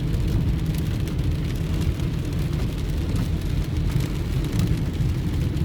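Heavy rain hitting a moving car as a dense scatter of drop ticks, over the car's steady low road and engine rumble.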